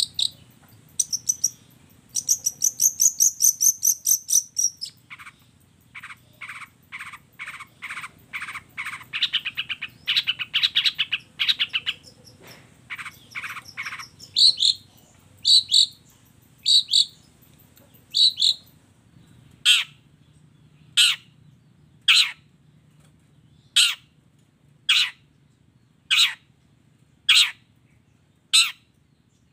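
Long-tailed shrike (cendet) singing a varied series of phrases: fast high chattering, then runs of quick repeated notes, then a string of harsh calls about one a second over the last ten seconds.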